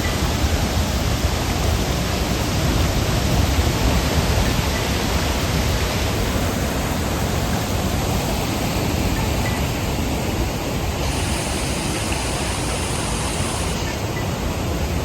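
Waterfall swollen after heavy rain, a steady rush of falling water with no let-up.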